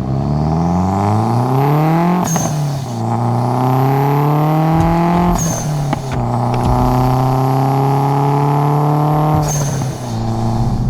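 Car engine accelerating through the gears, its note rising and then dropping at each of three upshifts, the last two gears held at a steadier pitch.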